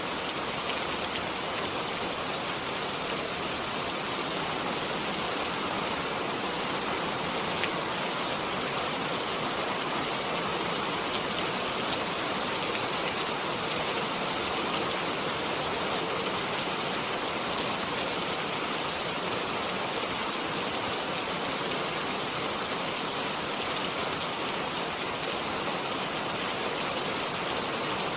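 Steady rainfall, an even hiss of drops on surfaces with occasional individual drop ticks.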